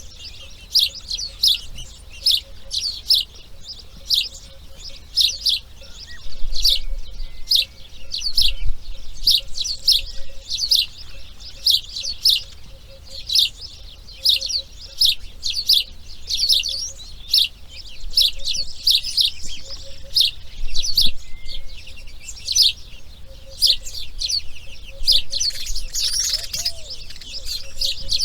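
A bird chirping over and over: short, high, downward-sweeping chirps at about two or three a second, with a fuller, harsher call near the end.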